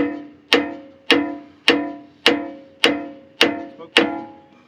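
Steady hammer blows on a steel pin or bushing being driven into a bulldozer's linkage, about two strikes a second. There are eight ringing metallic hits, and the part is driving in well.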